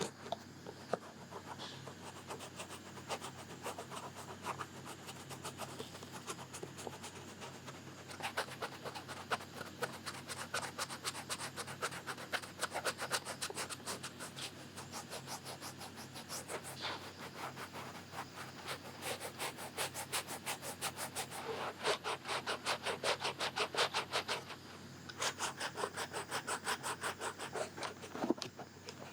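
Close-miked ASMR ear scratching: rapid runs of many small scratching strokes a second, broken by short pauses.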